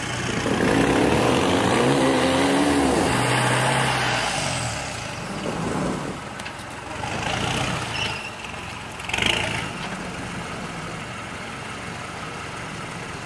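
Off-road 4x4 (a Land Rover Discovery) engine revving hard for the first few seconds as it churns through deep soft sand, then dropping back with a few shorter revs.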